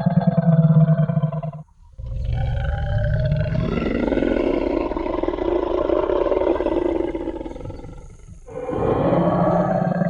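Tyrannosaurus rex roar sound effect: one roar cuts off just under two seconds in. After a brief gap comes a long, deep roar of about six seconds that fades away, and another roar begins near the end.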